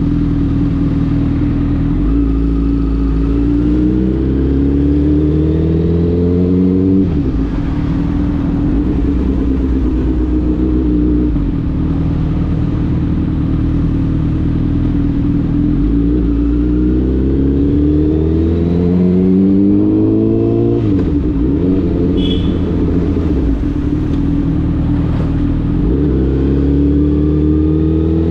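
Honda CBR1000RR's inline-four engine pulling under load, its pitch climbing steadily. It drops sharply about a quarter of the way in and again about three quarters of the way in, then climbs once more near the end.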